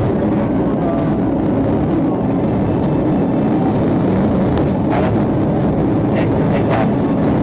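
Steady engine and road noise from a police patrol car driving at speed in a pursuit, a low drone that keeps up without a break.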